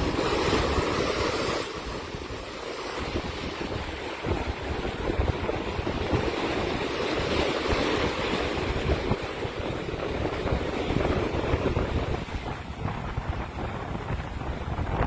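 Atlantic surf breaking and washing in, with strong gusty wind buffeting the microphone; the wash swells louder near the start and again about halfway through.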